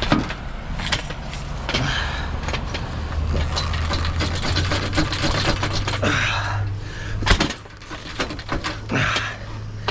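Clicks, scrapes and knocks of metal gear being handled, with one sharp knock about seven seconds in, over a steady low hum.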